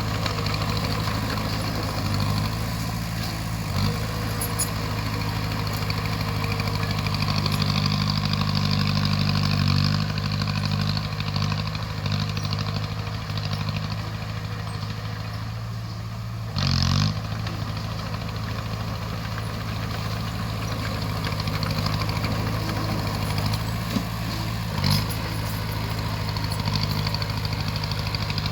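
Bulldozer's heavy diesel engine running steadily. About two-thirds of the way through there is a brief louder burst, and a few sharp knocks come now and then.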